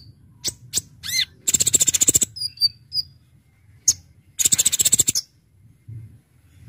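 Kolibri ninja (brown-throated sunbird) singing: sharp, high single chirps and a quick sweeping note, broken by two rapid trills of fast-repeated notes, the first about a second and a half in and the second about halfway through.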